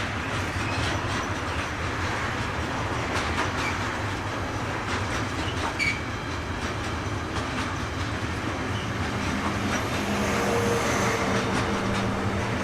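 A train rolls past, its wagon wheels clicking over rail joints, with a brief wheel squeal about six seconds in. A steady hum joins in for the last few seconds.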